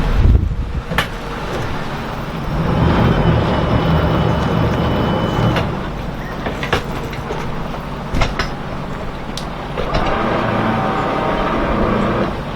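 Single-engine trawler's inboard diesel running steadily under way, with wind buffeting the microphone and a few sharp knocks. A higher hum joins in about ten seconds in.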